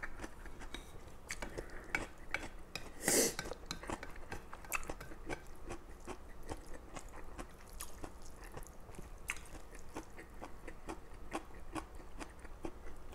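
Close-miked chewing of stir-fried instant noodles (spicy mi goreng): a steady run of small wet mouth clicks, with one louder brief sound about three seconds in.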